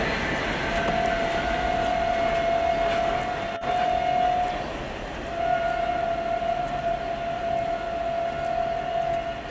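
Loaded freight train of covered wagons rolling past on the rails, over which a long steady high tone sounds twice, about four seconds each, with a short break near the middle.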